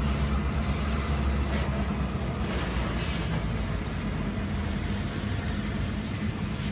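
A train rolling past as a steady rumble, with a brief high squeal about three seconds in.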